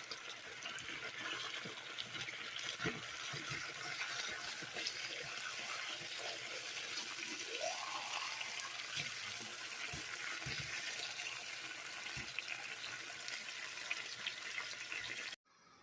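Chicken eggs sizzling in a hot frying pan, a steady hiss with scattered crackling pops, cutting off suddenly near the end.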